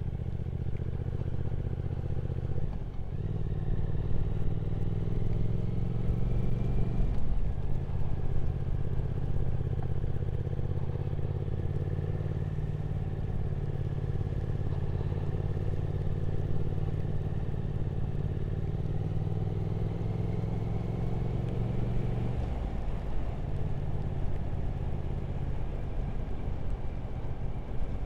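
Triumph Speed Twin 1200's parallel-twin engine running at a steady cruise under way. The engine note breaks and changes pitch briefly about 3 and 7 seconds in, and again shortly before the end.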